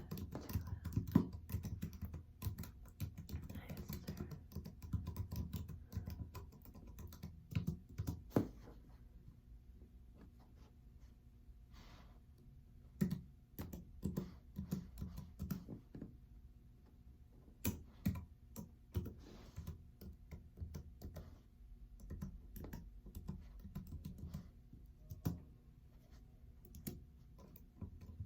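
Typing on a computer keyboard: a quick run of key clicks for the first several seconds, then sparser clusters of keystrokes with short pauses between them.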